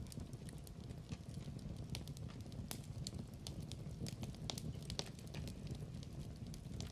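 Wood fire crackling in a fireplace: irregular sharp pops and snaps over a low, steady rush of the burning fire.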